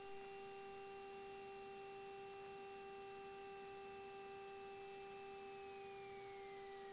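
Faint steady hum of several held tones with light hiss in the cockpit headset audio feed; the highest tone slides down in pitch about five and a half seconds in.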